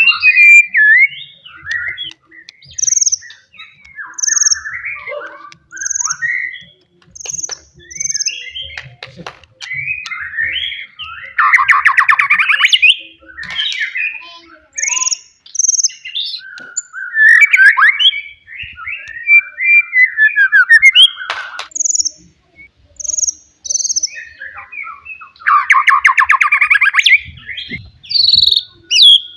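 A white-rumped shama singing loudly: a varied run of whistled phrases and short high thin notes, broken twice by longer harsh buzzy rattles, about a third of the way in and again near the end.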